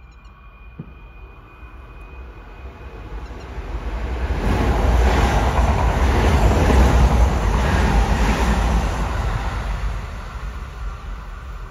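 Kintetsu Osaka Line electric train passing through the station at speed without stopping. Its rumble and wheel noise build over a few seconds, are loudest in the middle, then die away as it leaves.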